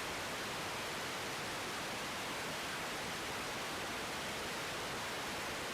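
Steady hiss of static on an air traffic control radio feed, with no one transmitting.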